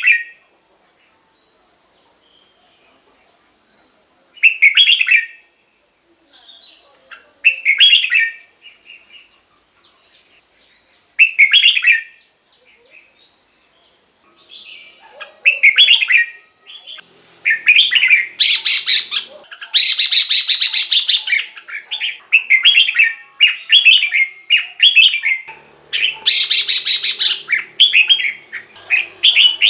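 Red-whiskered bulbul singing: short bubbly phrases a few seconds apart, then near-continuous song with several louder, harsher bursts in the second half.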